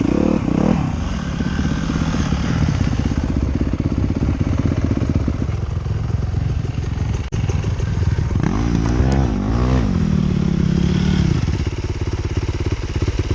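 Motorcycle engine running as the bike rides a trail. The engine revs up and down near the start and again about eight seconds in, then settles to a steady pitch.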